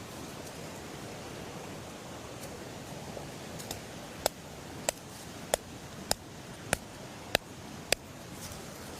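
A steady rushing hiss, like flowing river water, with a run of seven sharp knocks at an even pace, a little under two a second, starting about four seconds in.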